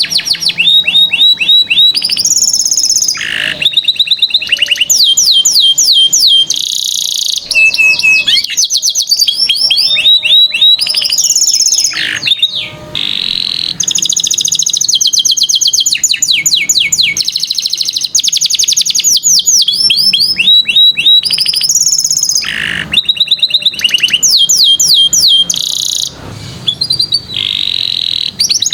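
Domestic canary singing continuously: long, rapid trills and rolls of repeated high notes, changing phrase every second or two with short fast chirps between.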